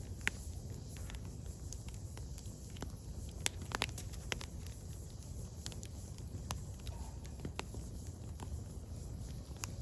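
Firewood burning: the wood crackles and pops in irregular sharp snaps, with a cluster of louder pops a little over three and a half seconds in, over a steady low rumble of the flames.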